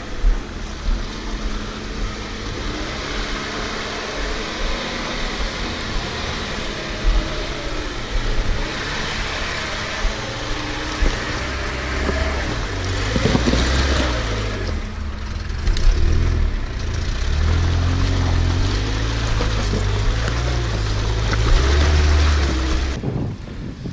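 Off-road 4x4's engine running under load while pushing through mud, with a steady rushing noise over it. The engine rumble grows heavier and louder about halfway through, and the sound cuts off sharply near the end.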